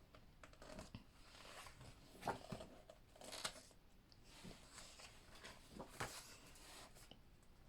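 Faint paper rustling and soft handling noises as pages of a book are turned, a few brief rustles against a quiet room.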